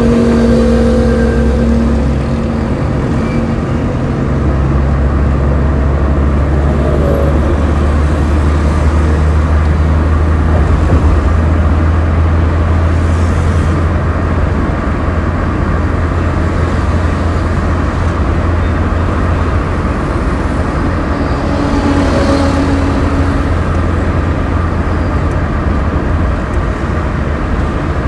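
Road traffic with a steady, loud low engine rumble. A vehicle horn sounding at the start stops about a second in, and a short horn-like tone comes in about two-thirds of the way through.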